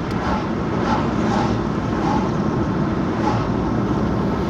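Steady road noise inside a moving car: tyre and engine rumble at an even speed.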